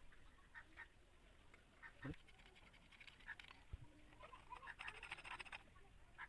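Faint, scattered short animal calls over low background noise, with a brief rapid rattle of clicks about five seconds in.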